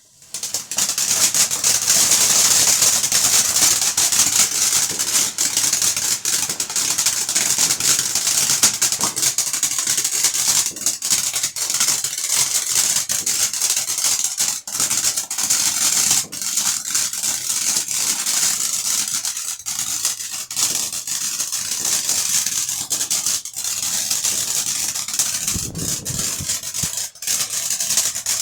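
Crackling fireworks: a dense, continuous spray of rapid crackles over a steady hiss, starting abruptly about half a second in.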